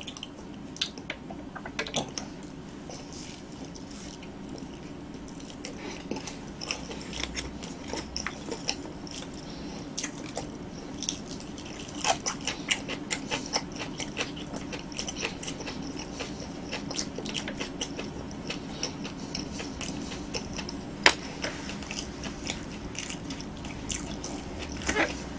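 Close-miked chewing and small wet mouth clicks of someone eating soft roasted sweet potato, with one sharper click about three quarters of the way through and a faint steady hum underneath.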